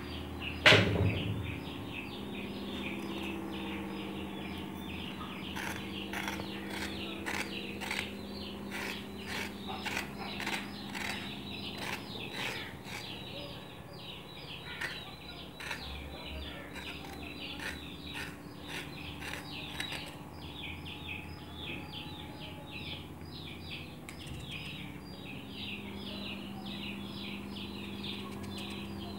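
Many small birds chirping busily and continuously, over a steady low hum. A single loud knock comes about a second in, and a run of quick crisp clicks follows between roughly six and thirteen seconds.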